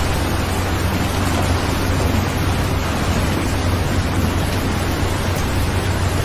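Steady rain: an even hiss with a constant low rumble underneath.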